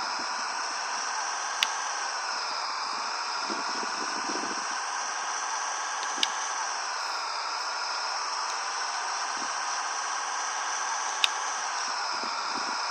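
Steady road-and-wind noise from a truck on the move, with a slow wavering in the hiss and three sharp clicks spaced about five seconds apart.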